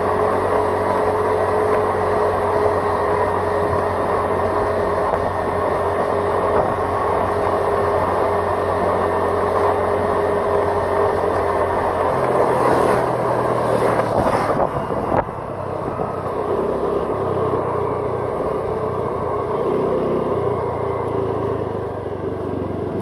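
Steady running noise of a vehicle travelling along a road, heard from on board: engine and tyre noise with a held tone. About twelve seconds in the noise shifts, rising briefly to a louder surge that cuts off suddenly.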